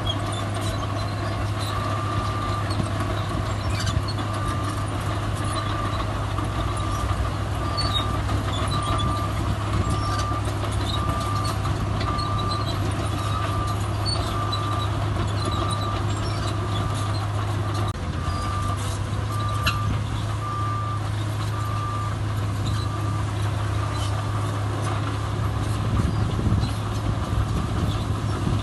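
A heavy diesel earthmoving machine's reversing alarm beeps steadily, about one beep every three-quarters of a second, over the low, steady drone of its running engine.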